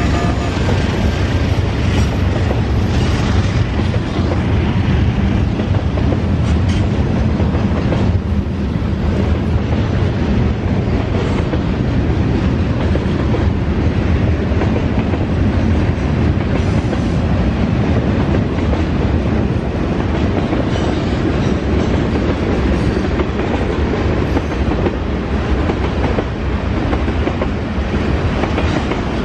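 Freight cars rolling past on steel rails: a loud, steady rumble with the clickety-clack of wheels over rail joints.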